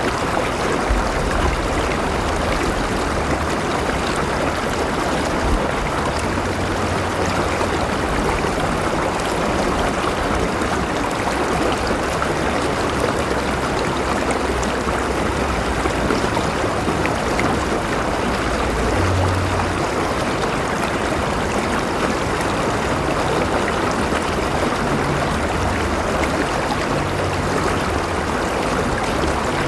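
A river running and splashing over its bed in a steady, even rush with a low rumble underneath.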